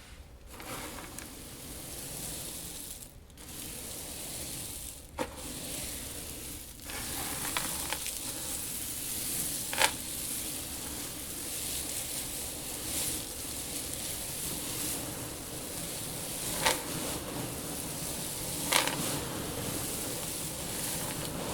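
Dry seeds in a seed tank being stirred and shifted, a steady hissing rustle with a few sharp clicks every few seconds.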